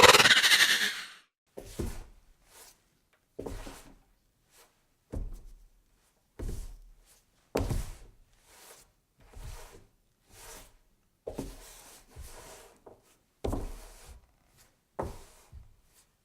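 A loud noisy burst about a second long, then a slow, uneven series of dull thuds or knocks, about one every one to two seconds, some of them doubled.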